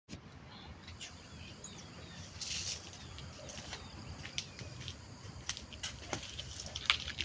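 Outdoor rural ambience: faint bird chirps, scattered sharp clicks, and a brief rustle about two and a half seconds in.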